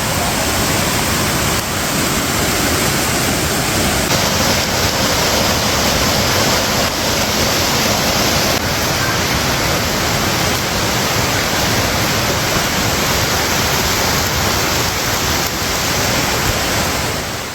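Floodwater rushing past in a steady, loud noise that shifts slightly about four seconds in and fades out near the end.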